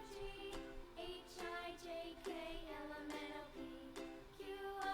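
Soft background music: a light melody of short plucked notes.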